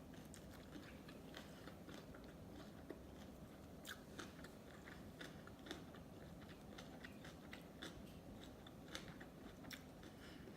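Close-miked mouth sounds of sushi being chewed: a steady run of small, wet clicks and crackles, several a second.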